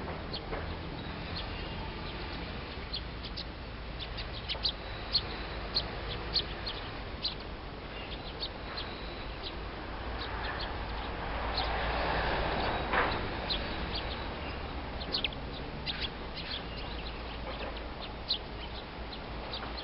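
Small wild birds chirping: many short, sharp, high notes scattered irregularly, over a steady low hum. Around the middle, a broad rushing noise swells up and fades.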